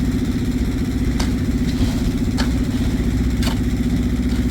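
An engine running steadily at idle, with three sharp knocks roughly a second apart.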